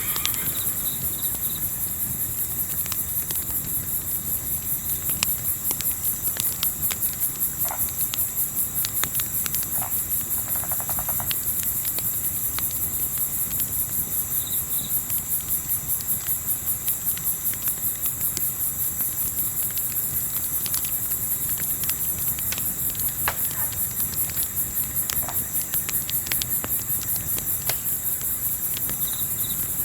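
Crickets chirping steadily in a fast, even pulse, with scattered small pops and crackles of a campfire over a low rumble.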